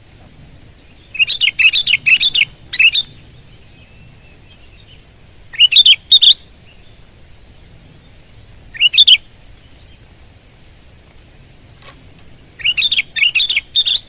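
Sooty-headed bulbul (kutilang) singing loudly in short bursts of quick, chattering whistled notes: four phrases, each a few notes long, separated by pauses of two to three seconds.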